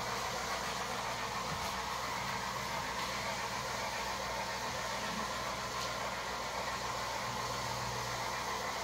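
Steady whirring motor noise with a low hum underneath, unchanging in level.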